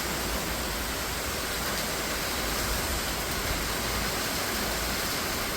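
Heavy tropical rain falling steadily, a dense even hiss.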